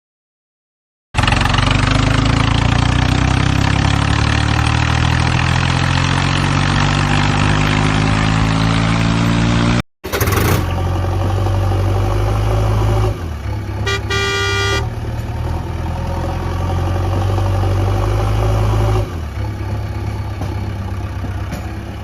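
Truck engine starting after a second of silence and rising steadily in pitch as it revs. After a brief cut about ten seconds in, the engine runs steadily, with one short horn honk partway through.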